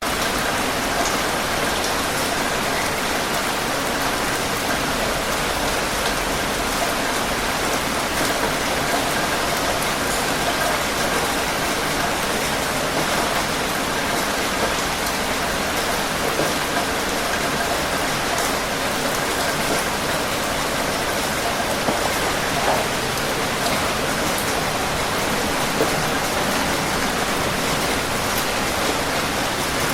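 Steady rain falling, an even hiss of rain on surfaces with scattered individual drop ticks.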